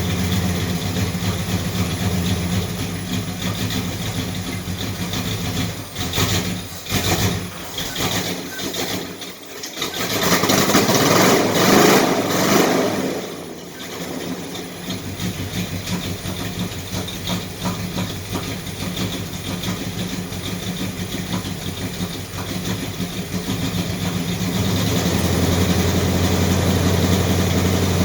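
A car engine idling steadily. There are a few knocks about six to nine seconds in, then a louder stretch of noise for about three seconds before the idle settles again and grows fuller near the end.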